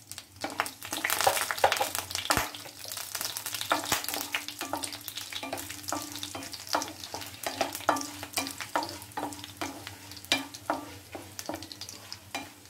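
Dried red chillies and fennel seeds sizzling in hot sesame oil in a nonstick pan, with a wooden spatula scraping and clicking against the pan as they are stirred. The sizzle is loudest about a second in, just after the chillies go into the oil.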